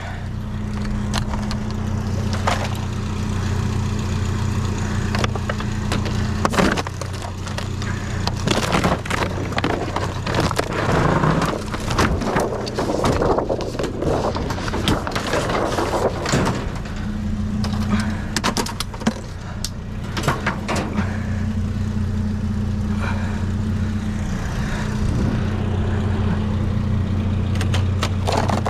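An old TV being pried and broken apart by hand: its plastic casing cracks and snaps, and its sheet-metal body rattles and scrapes, busiest in the middle. A vehicle engine idles steadily underneath.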